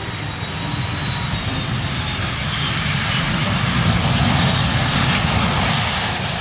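Airplane engine sound effect passing by, swelling to its loudest about four seconds in and then fading, with a high whine over the engine noise.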